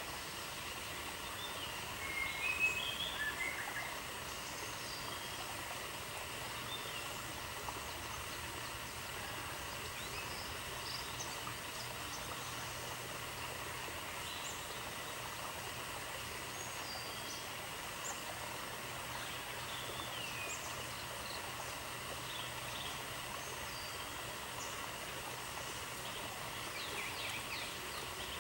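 Steady outdoor ambient hiss, with short chirping calls scattered through it. A brief flurry of chirps about two seconds in is the loudest part.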